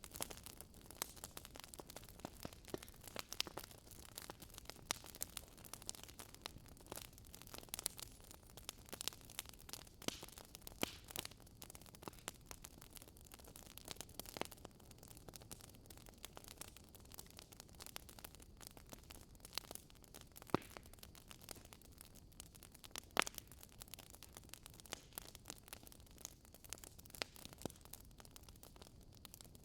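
Wood fire burning, crackling with irregular sharp pops over a soft steady hiss, with a couple of louder pops about two-thirds of the way in.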